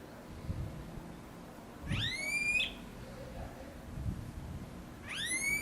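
A bird calling twice, about three seconds apart: each call is a short whistle that rises sharply in pitch and ends in a brief higher note.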